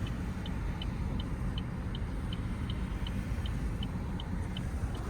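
Steady low rumble of a car idling, heard from inside the stopped car, with a light, regular ticking about three times a second.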